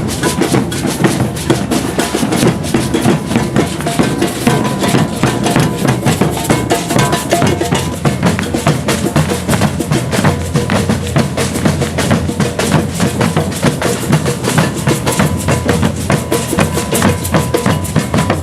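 A maracatu de baque virado percussion ensemble playing a dense, steady rhythm: deep alfaia bass drums under snare drums, with an iron gonguê bell.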